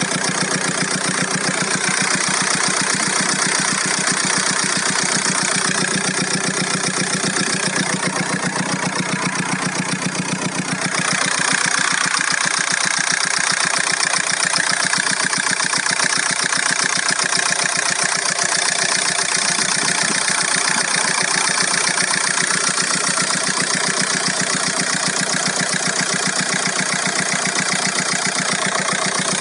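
VW Golf 4 1.9 TDI four-cylinder turbodiesel engine running at a steady idle with a fast, even clatter, carrying a strange noise that the owner cannot identify. The tone of the upper part of the sound changes about a third of the way through.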